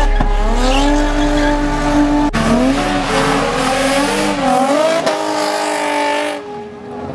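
Car engine revving hard, its pitch climbing and then rising and falling, with tyres squealing as the car drifts. The sound drops away near the end.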